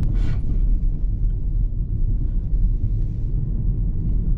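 Steady low rumble of a car driving, heard from inside the cabin: road and engine noise. There is a brief hiss just after the start.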